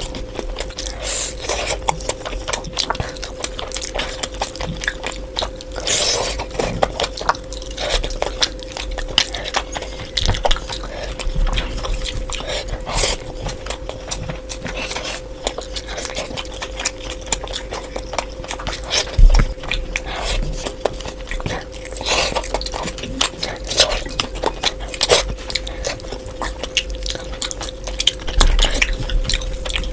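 Close-miked eating of curry: steady wet chewing, lip smacks and bites, with a faint steady hum underneath.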